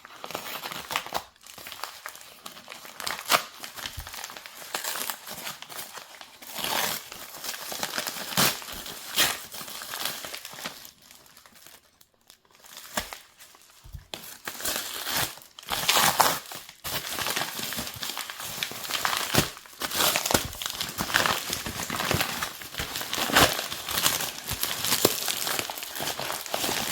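Plastic packaging being opened by hand: irregular crinkling and rustling with sharp crackles and some tearing, briefly quieter about halfway through.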